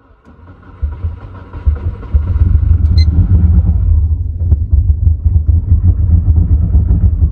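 Subaru Legacy's rebuilt EJ21 flat-four engine running at idle, heard from inside the cabin as a steady low rumble that comes up over the first two seconds and then holds.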